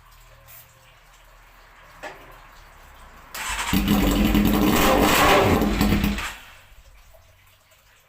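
Honda CBR600 inline-four with no exhaust being started: about three seconds in the starter cranks and the engine catches with a loud, raw running sound, runs for about three seconds, then stops.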